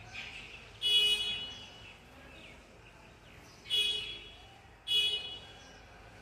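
A big ringneck parrot (Alexandrine parakeet) screeching three times: one loud harsh squawk about a second in, then two more near four and five seconds.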